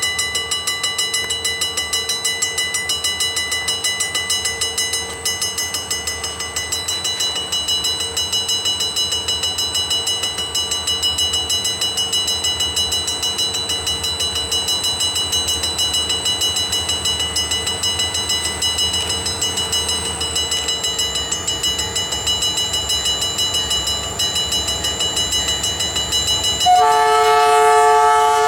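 Freight train with diesel locomotives running, with a steady pulsing rumble and a constant high whine that dips slightly in pitch about 20 seconds in. Near the end, about 27 seconds in, the locomotive's multi-chime air horn starts to blow loudly and holds.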